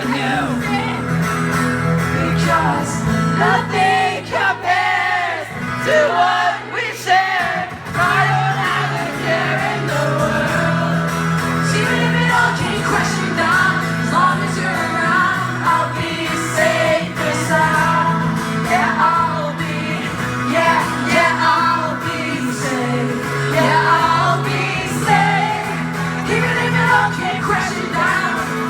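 A live rock band playing with sung vocals over steady bass and guitars.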